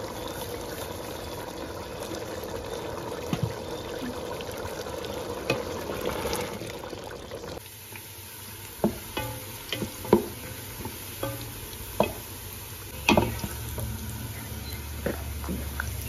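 Food sizzling in a large aluminium cooking pot. About halfway through, sliced onions frying in oil are stirred with a wooden spoon, which knocks sharply against the pot several times.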